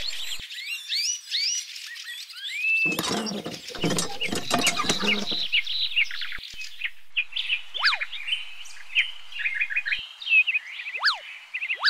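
Birds chirping and calling in quick, repeated notes, with a brief rustling, scraping noise about three to five seconds in.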